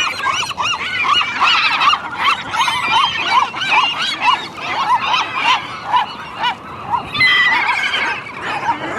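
Several seagulls calling together: a steady run of short, arched squawks, about three a second and overlapping, with higher, thinner calls coming in near the end.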